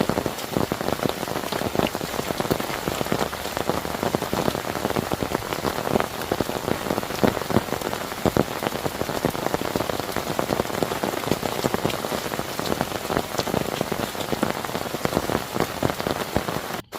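Heavy rain pouring down, a dense, steady patter of drops striking a surface. The sound cuts out for an instant just before the end.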